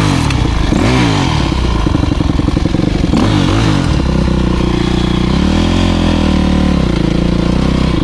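Motocross bike engine running loud and revving, its pitch rising and falling several times.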